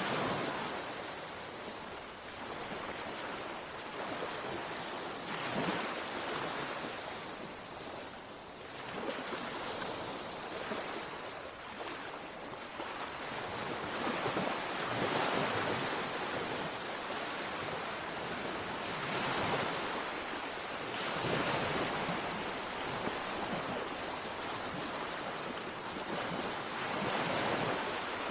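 Sea waves breaking and washing on a shore, in a steady surf that swells and recedes every few seconds.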